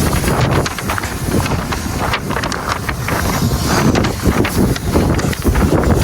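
Wind buffeting the microphone, a loud, gusty low rumble and rustle that rises and falls irregularly.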